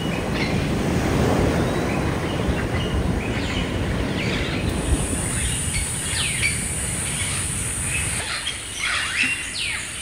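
Birds chirping in short, quick downward-sweeping calls over a low, steady rushing noise that eases off about eight seconds in. A high, even hiss joins for about three seconds midway.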